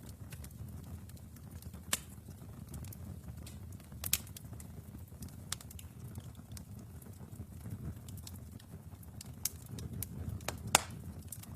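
Wood fire in a fireplace crackling over a low steady rumble, with sharp pops about two and four seconds in and a louder pop near the end.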